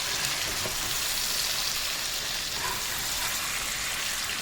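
Chicken drumsticks sizzling steadily in hot oil in a pan as they fry.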